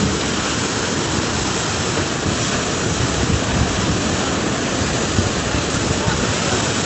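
Floodwater rushing past in a steady, unbroken noise.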